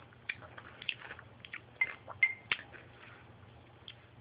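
Someone chewing a pickle with their mouth close to the microphone: scattered wet crunches and mouth clicks, with two brief squeaky tones about two seconds in.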